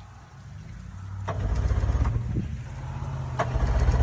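Boat's outboard motor running, a steady low engine note that grows louder twice, about a second and a half in and again near the end, with a couple of short clicks.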